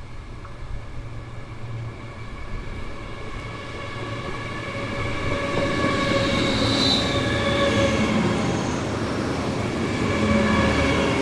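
A train approaching and passing on the line, growing louder over the first half and then staying loud, with a steady whine of several high tones over a low rumble.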